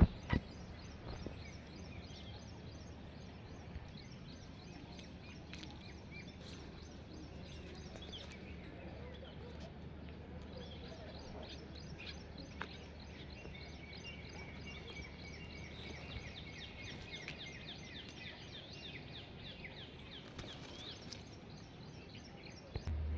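Outdoor nature ambience: birds chirping and calling over a steady low rumble. Many small high chirps run throughout, and a busier run of repeated chirping calls comes in the second half.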